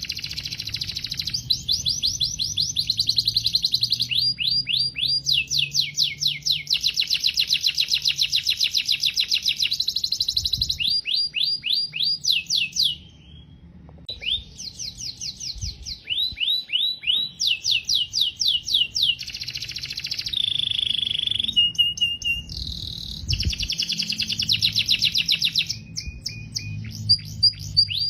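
Domestic canary singing a long song of rapid trills, each a fast run of repeated high sweeping notes, switching from one trill to another with a short pause about halfway through.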